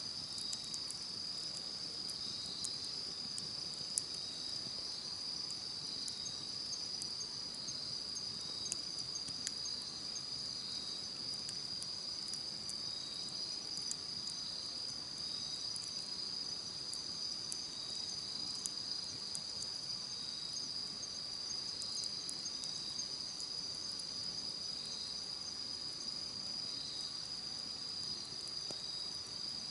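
Campfire crackling with scattered sharp pops, under the steady high trill of insects and a short chirp repeating about once a second.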